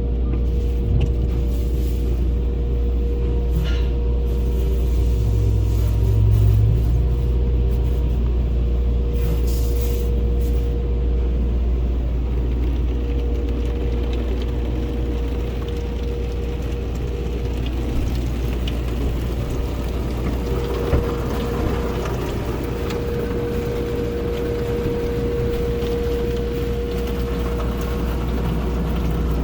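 Tunnel car wash equipment running, heard from inside a car going through: a steady low hum with a constant whine over it and a wash of noise, with a few faint knocks in the second half.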